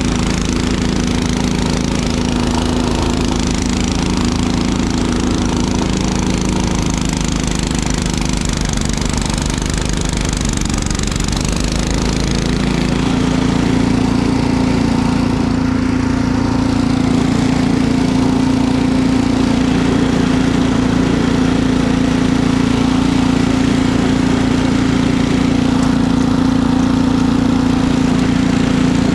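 Small engine running steadily, rising slightly in speed and getting louder about twelve seconds in, then holding the higher speed.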